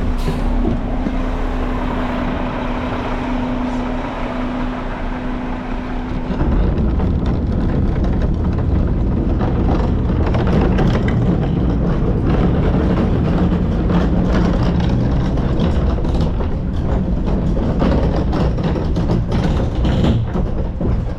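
Garbage truck running with its packer compacting the load as it drives. A steady hum for the first six seconds, then the engine gets louder, with frequent knocks and rattles.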